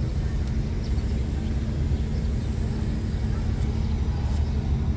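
Steady low outdoor rumble, like distant traffic, with a faint steady hum and a few faint light clicks.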